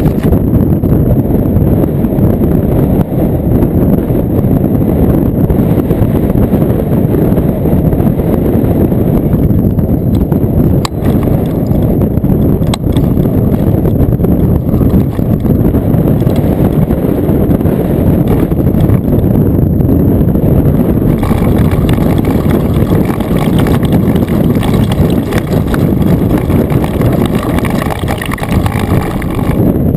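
Loud, steady wind rumble buffeting the microphone, with a dirt bike's engine running underneath. From about two-thirds of the way in, a steady engine tone comes through more clearly.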